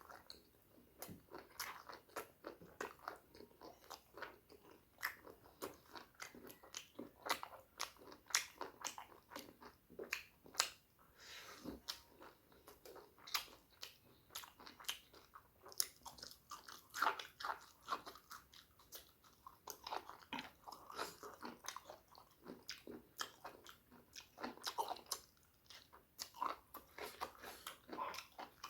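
Close-miked chewing and mouth sounds of someone eating pork curry with rice: a quick, irregular run of smacks and clicks as each mouthful is chewed.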